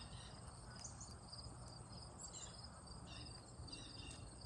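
Faint, steady high-pitched cricket trilling, with a few soft, high chirps from small birds scattered through it.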